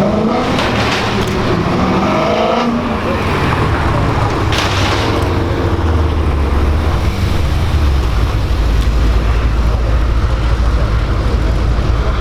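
Car engine revving, its pitch rising over the first two and a half seconds, then settling into a steady low rumble that grows deeper and heavier from about eight seconds in.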